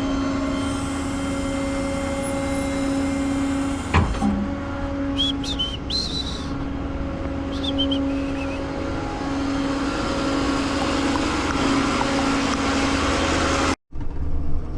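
Tow truck driving, heard from inside the cab: a steady engine drone with road rumble. There is a single knock about four seconds in and a few brief high squeaks just after; the sound cuts out abruptly near the end.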